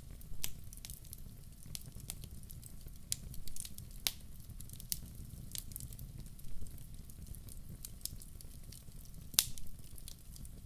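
Logs burning in a fireplace, crackling with irregular sharp pops over a low steady rumble; the loudest pop comes near the end.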